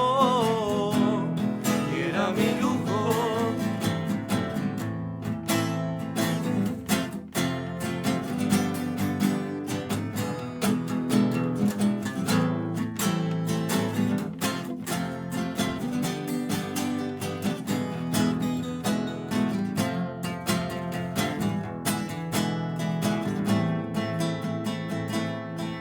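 Live band playing a song on strummed acoustic guitar, with a singer holding a wavering note that ends about three seconds in before the guitar carries on alone.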